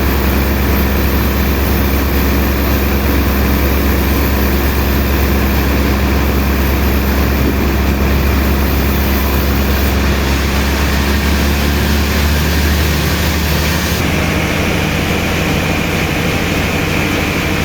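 Heavy machinery running steadily with a low hum; the sound shifts about ten seconds in and again near fourteen seconds.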